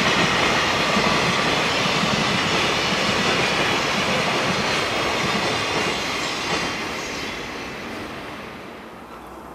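Container freight train's flat wagons rolling past on the rails, the noise holding steady for several seconds and then fading away as the end of the train recedes.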